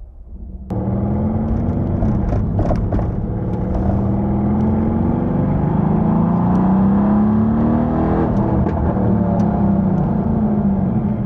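Mercedes-AMG C63 S (W205) 4.0-litre twin-turbo V8 on its stock exhaust, running under way. The engine note climbs and falls with the throttle. The sound comes in abruptly less than a second in.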